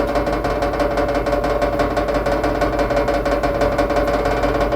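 Washing machine in its final spin, running with a steady whine and a fast, continuous rattle. The rattle is an odd noise that a second washer did not make, thought to come from the bottom of the machine.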